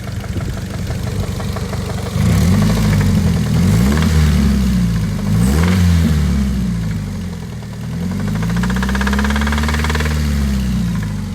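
Ford Focus ZX3's four-cylinder engine running, then revved in several quick blips from about two seconds in and once more in a slower, longer rev near the end. It has the 'da-dink, da-dink' knock of an engine that is failing: not a very healthy sounding engine.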